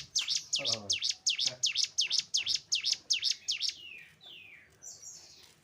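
Cigun (ciblek gunung) singing: a fast run of sharp, downward-sweeping notes, about four a second, that stops a little under four seconds in, followed by a few softer slurred notes.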